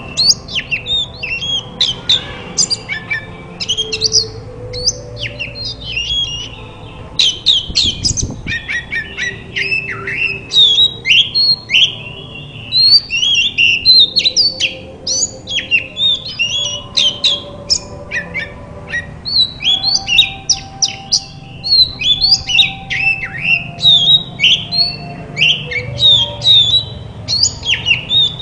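Oriental magpie-robin singing a fast, varied song of whistles, chirps and harsher notes in quick succession, with short pauses.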